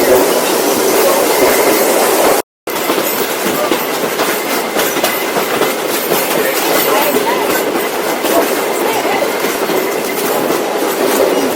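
Heritage train carriage rolling along the track, wheels clattering over the rails in a steady clickety-clack, with a brief cut-out about two and a half seconds in.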